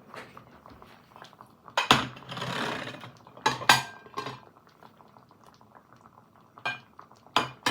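Plates being fetched and handled: a few sharp ceramic knocks and clinks, one of them ringing briefly, with a short rushing scrape after the first.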